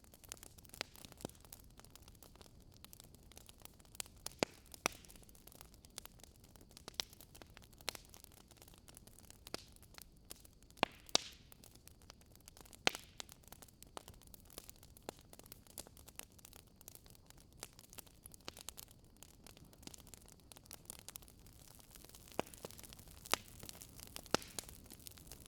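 Fire crackling: irregular sharp pops and snaps over a low steady hiss, with a few louder pops scattered through.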